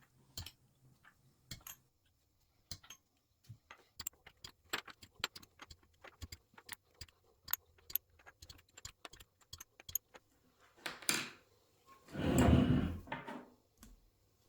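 Valve buckets and shims being taken out of a Yamaha R1 cylinder head: a string of light metallic clicks and clinks, then a louder metal rattle lasting over a second near the end.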